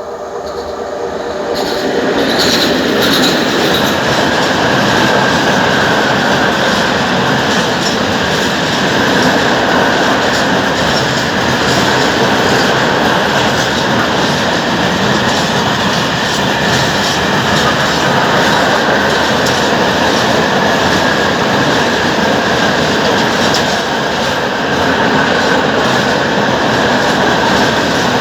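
Freight train passing close by at speed, its wagons rolling past with a steady rumble and the clicking of wheels over rail joints, with a high ringing from the wheels. It grows louder over the first two seconds, then stays loud.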